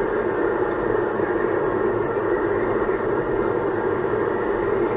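Steady road and engine noise inside the cabin of a Toyota Tank minivan cruising on the highway.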